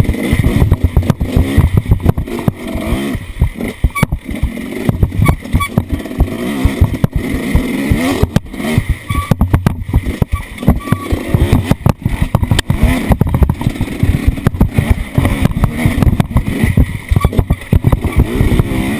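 An off-road vehicle's engine revving up and down while it drives over rough ground, with many sharp knocks and rattles from the jolting.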